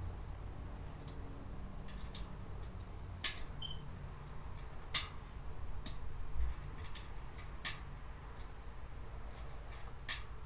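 Storage cart parts being handled and fitted together during assembly: irregular sharp clicks and light taps, a few louder than the rest, with no steady rhythm.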